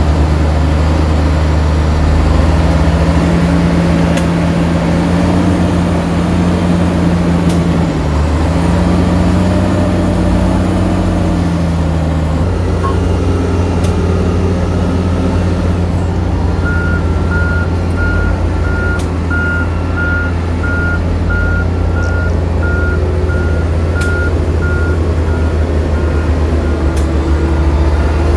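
Heavy diesel engines of earthmoving machinery and a dump truck running, their engine note shifting as the load changes. Partway through, a reversing alarm starts beeping steadily, about one and a half beeps a second.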